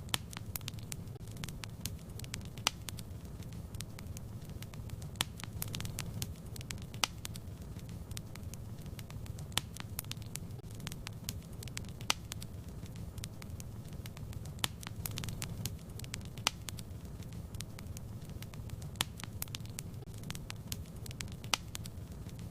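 Fire in a fireplace crackling, with irregular sharp pops, a louder one every second or two, over a steady low rumble of the flames.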